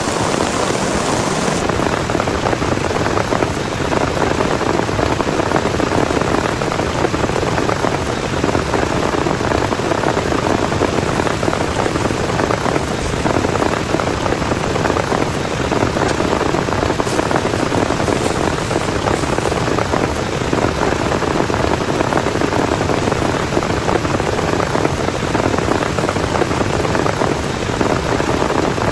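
Heavy rain falling steadily in a storm, an even, unbroken wash of drops.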